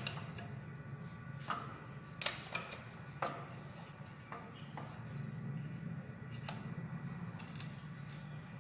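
Irregular light metallic clinks and taps of hand tools and engine parts being handled, about eight in all, over a steady low hum.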